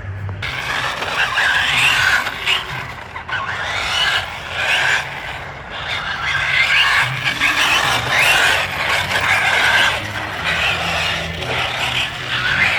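Radio-controlled car's small electric motor and drivetrain whining, rising and falling in pitch again and again as it speeds up and slows, over a noisy hiss.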